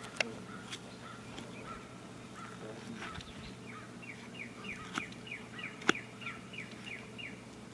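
A songbird singing a run of about a dozen quick, falling chirps, starting about three and a half seconds in, over fainter repeated bird notes. Two sharp clicks cut through, one just after the start and a louder one about six seconds in.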